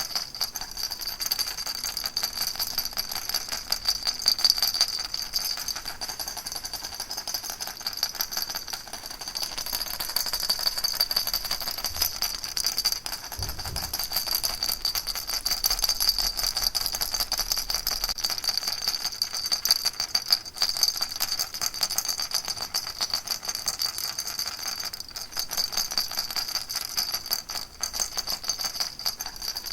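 Baby rattle shaken rapidly and without pause, a dense, even rattling with a bright ringing edge.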